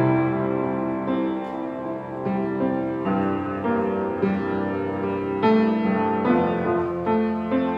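Piano or keyboard playing slow, sustained chords, a new chord struck about once a second and left to ring.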